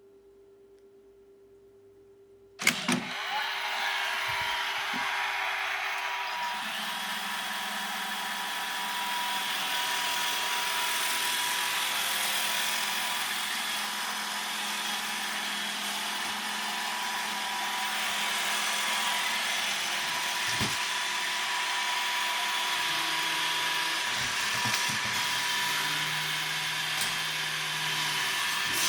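Robot vacuum cleaner starting up about two and a half seconds in, then running steadily with its motor whine and brush noise.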